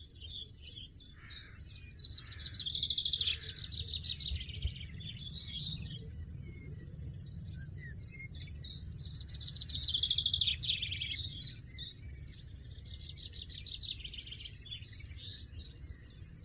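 European goldfinches twittering, with bouts of fast, rapidly repeated high notes, loudest about three seconds in and again around ten seconds in.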